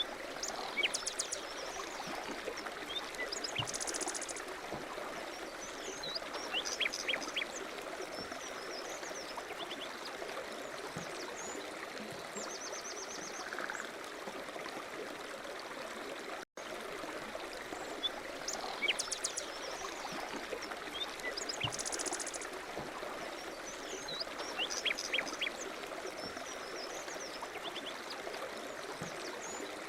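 A stream runs steadily, with small birds chirping and trilling now and then over the water. There is a brief break in the sound about halfway through.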